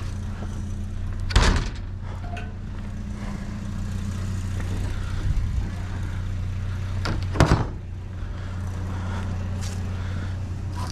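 A vehicle engine running steadily at idle, with two loud slams, one about a second and a half in and another about seven seconds in.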